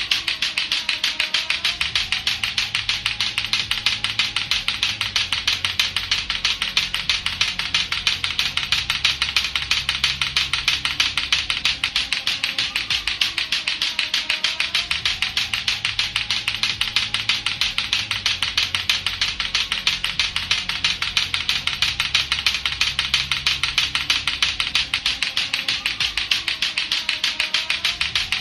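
Lato-lato clackers, two hard plastic balls on a string, knocking together in a fast, steady clacking rhythm. Background music plays underneath.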